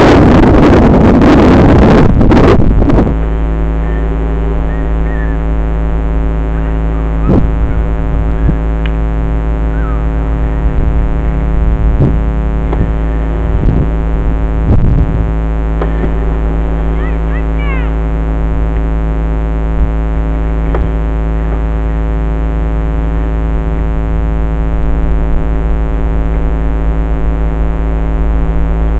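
Dirt bike engine idling steadily, after loud wind buffeting on the microphone stops about three seconds in.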